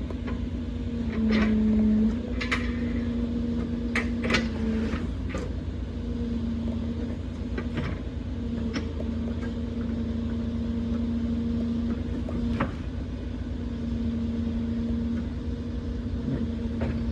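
Truck-mounted loader crane at work: the truck's engine runs steadily driving the crane's hydraulics, with a steady hum that shifts slightly in pitch a few times as the crane is worked. Scattered sharp clicks and knocks run through it.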